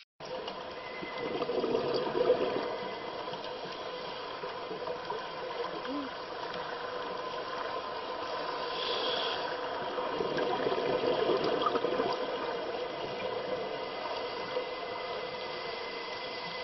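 Muffled underwater water noise, a steady wash with a faint constant hum through it, swelling a little now and then.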